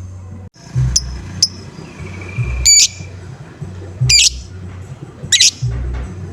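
Lovebird giving loud, short, harsh 'ngoek' calls, three of them about one and a half seconds apart, with two brief chirps about a second in.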